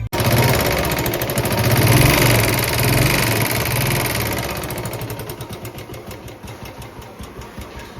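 Royal Enfield Electra single-cylinder engine running with a heavy, even beat. It swells to a peak about two seconds in, then eases back down. Its mechanical noise is put down by the mechanic to a worn bearing and a noisy crank.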